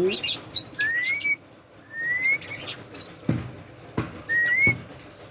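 Sharp high chirps from an Indian ringneck parakeet, and three short rising whistled notes. A few soft knocks sound in the second half.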